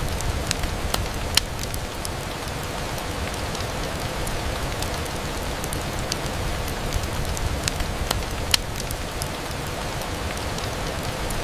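Steady rain falling, with scattered sharp ticks of individual drops throughout; two ticks stand out louder, one about a second and a half in and one a little past the middle.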